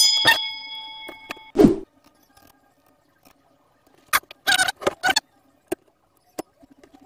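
A bell 'ding' from a subscribe-button sound effect rings out and fades over about a second and a half, followed by a short swoosh. Later comes a cluster of sharp clicks and rattles as a thermal fuse and its wires are handled on an induction cooker's copper coil.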